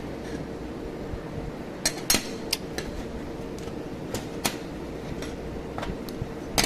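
Sharp, irregular metallic clinks, about eight over four seconds starting about two seconds in, as metal workpieces and tools are handled on a bench. Under them runs a steady machine hum with a faint steady tone.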